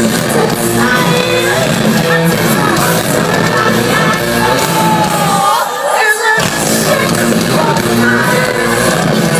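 A live heavy metal band playing at full volume, with a vocalist singing and shouting over guitars and drums. The bass and drums cut out briefly about six seconds in while the voice carries on.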